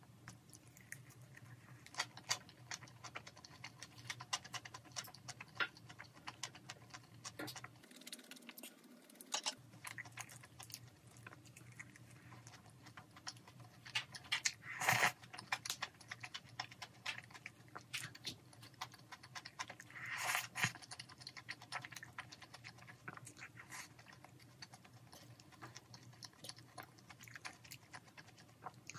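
Close-miked eating: a person chewing a lettuce wrap and bites taken with chopsticks, with many short wet clicks and smacks. The loudest bursts come about halfway through and again about two-thirds of the way in.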